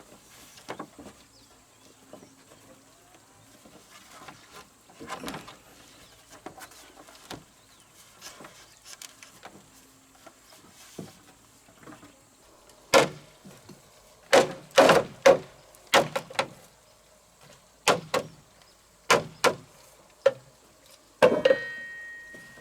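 Building work: scattered light knocks and scrapes, then about a dozen loud sharp knocks or bangs in the second half. The last bang leaves a short ringing tone.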